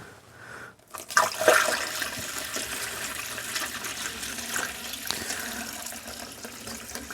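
Water being poured into a vintage car's radiator, a steady splashing pour that starts with a loud gush about a second in.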